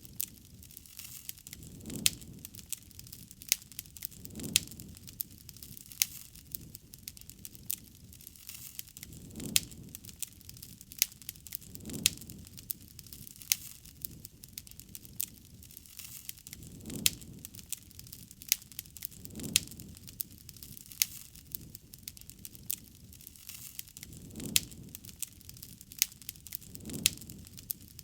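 Wood campfire crackling, with frequent sharp pops and snaps over a soft hiss. Low swells of flame come every two to three seconds.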